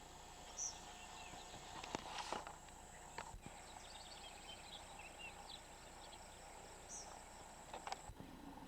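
Faint outdoor ambience with a few soft rustles and clicks and small high chirps from birds or insects; a steady faint hum cuts off suddenly near the end.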